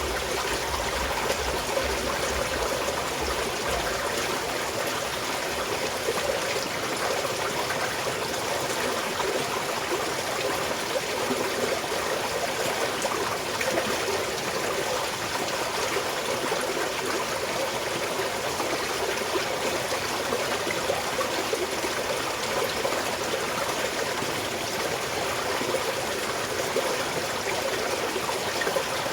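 Small mountain stream flowing and trickling at a steady level.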